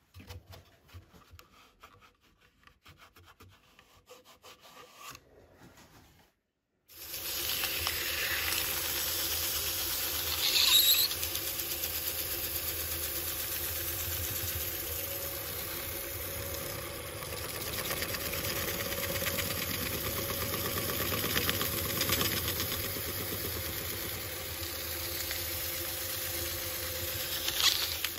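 Faint scattered ticks, then from about seven seconds in a wood lathe runs steadily while abrasive rubs against the spinning burl: a steady hiss of sanding over the lathe's hum. A brief louder squeal comes about ten seconds in.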